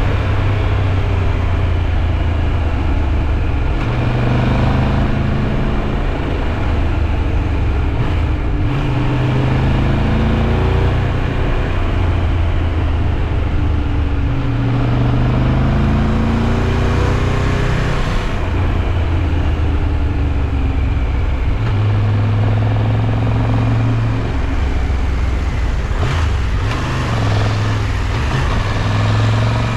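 Triumph Tiger 1200 Rally Pro's three-cylinder engine running under way, its pitch rising and falling several times with the throttle.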